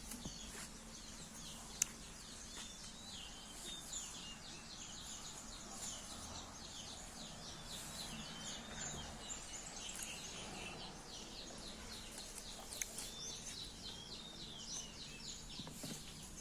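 Faint, continuous chirping of small birds, many quick repeated calls, with a single sharp click about two seconds in.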